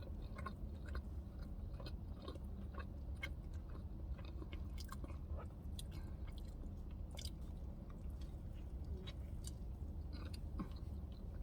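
A person chewing a mouthful of hamburger, with many small, irregular mouth clicks.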